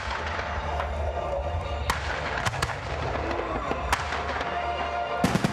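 Fireworks going off: separate sharp bangs every second or so, with a louder quick cluster of bangs near the end, over a steady low rumble and background crowd voices.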